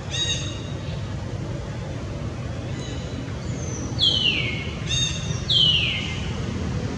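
High-pitched monkey calls: brief calls at the start and about five seconds in, and two longer calls falling in pitch about four and five and a half seconds in, over a steady low background rumble.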